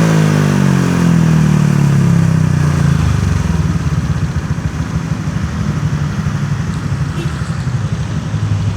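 Honda Vario 125 scooter engine running through an aftermarket Tusky exhaust. Its revs fall away from a rev and settle into a steady idle about three seconds in.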